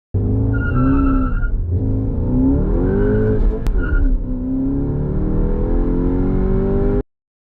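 Skoda Octavia Mk3 engine accelerating hard through the gears: the pitch climbs, drops at gear changes about one and a half and four seconds in, and climbs again. There is a sharp click just before the second shift, and the sound cuts off abruptly near the end.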